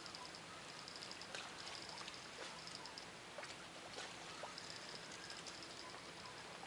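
Quiet riverside ambience: a faint steady hiss with short, high-pitched chirping trills repeating about once a second, and a few soft clicks.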